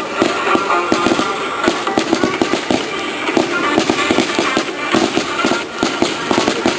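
Starmine aerial fireworks barrage: a rapid, continuous string of sharp bangs and crackles with no break.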